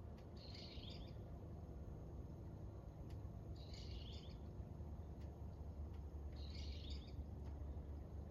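A bird calling: three short, high calls, one about every three seconds, over a low steady rumble.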